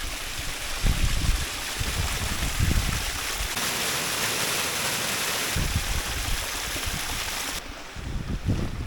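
Creek water running over a small waterfall: a steady rushing splash, with irregular low buffeting from wind on the microphone. The rushing gets a bit brighter about halfway through and becomes more muffled near the end.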